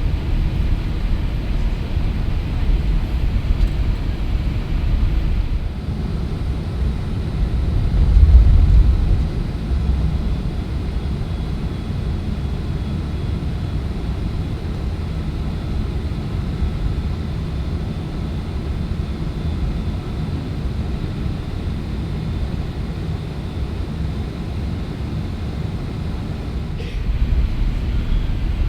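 Airbus A380 engines and airframe heard inside the cabin as a steady low rumble, with a brief louder swell of rumble about eight seconds in.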